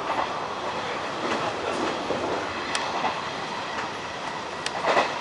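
Hanshin 1000 series electric train running along the track: a steady rumble of wheels on rails, with a few sharp clicks from the wheels near the end.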